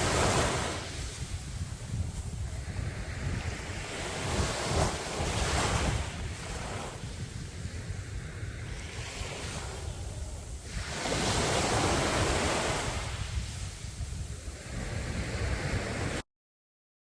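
Sea waves breaking and washing up a beach, a surge every five or six seconds, over a steady rumble of wind on the microphone. The sound cuts out completely for under a second near the end.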